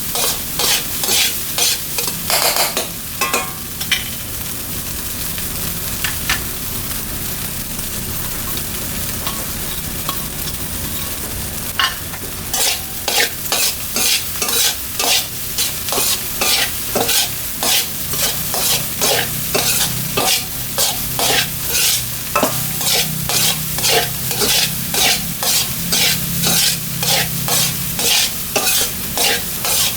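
Fried rice being stir-fried in a wok, a spatula scraping and tossing about twice a second over a steady sizzle. The strokes stop for several seconds a few seconds in, leaving only the sizzle, then resume.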